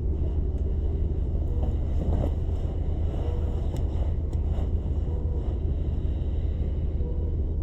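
Steady low hum and rumble of a limited express electric train standing at a station, its onboard equipment running while it waits to depart.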